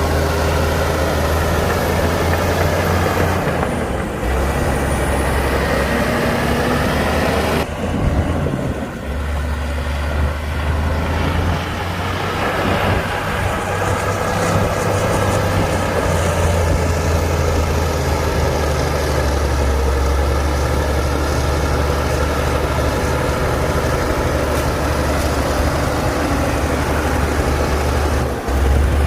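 Heavy diesel engine of earthmoving machinery running steadily under load, a deep continuous drone. It breaks off abruptly and resumes about 4 and 8 seconds in and again near the end.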